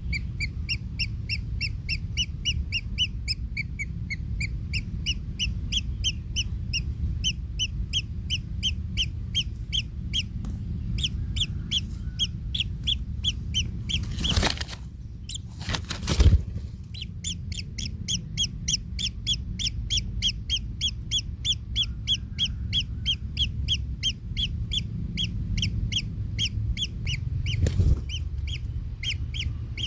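Kingfisher nestlings calling in the nest: a long run of short, evenly repeated chirps, about three a second, over a steady low rumble. The calling breaks off for two loud knocks about halfway through, then resumes, and one more knock comes near the end.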